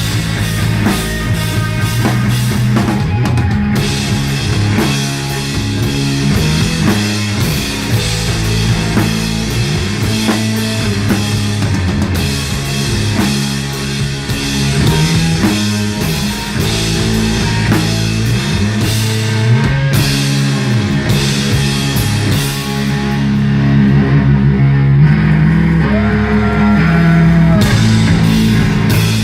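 Live rock band playing loud music with drum kit and guitars over moving low bass notes.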